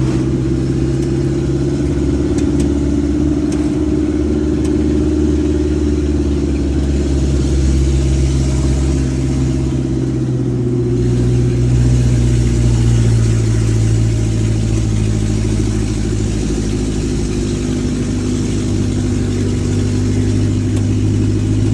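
Mitsubishi Colt T120SS engine running through an open 'brong' exhaust during driving, a steady loud drone with a shift in engine pitch about halfway through.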